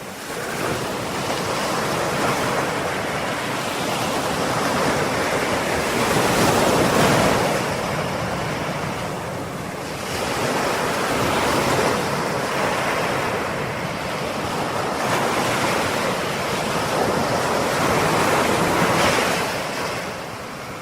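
Ocean surf: waves breaking and washing ashore in a continuous rushing noise that swells and eases every few seconds, with the biggest surges about a third of the way in and near the end.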